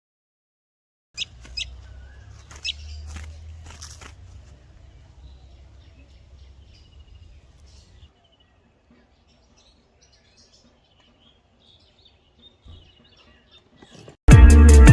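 Faint chirping of small birds over a low rumble of wind or handling noise, with a few sharp clicks at the start. Loud electronic music with heavy bass cuts in near the end.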